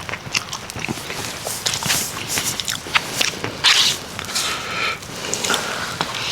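Eating from a plate: a spoon scraping and clicking against the plate, with chewing, in a run of small irregular clicks and crackles. There is a short pitched scrape about four seconds in and another near the end.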